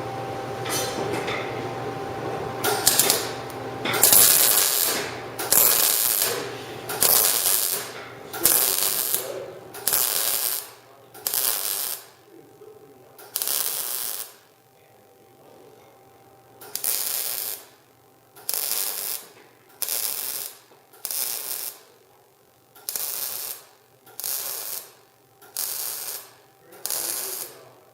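MIG welder stitch welding thin steel: the arc crackles in short bursts about once a second, each under a second long, after a longer continuous run at the start, with a pause of about two seconds just past the middle.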